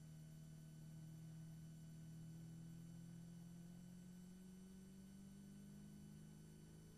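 Caterham Seven race car's four-cylinder engine accelerating in one gear, a faint steady drone whose pitch climbs slowly as the speed rises.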